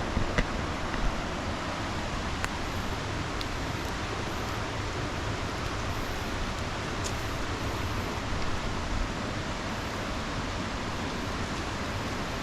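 Steady rushing of flowing river water, an even wash of noise with no rhythm. A few faint clicks and light knocks sound over it, near the start and again about two-thirds of the way in.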